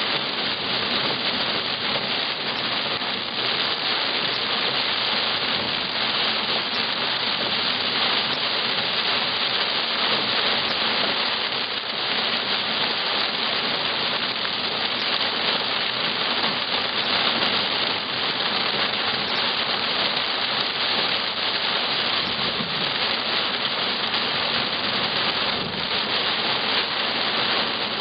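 Heavy thunderstorm rain falling on a car's windshield and body, heard from inside the car as a steady, dense hiss.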